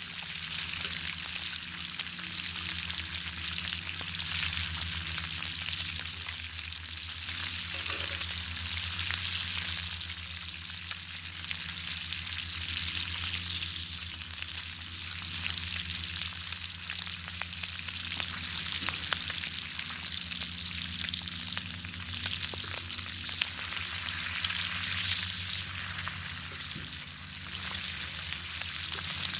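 Bacon sizzling over a crackling wood fire: a dense, steady hiss scattered with many small pops and crackles, over a steady low hum.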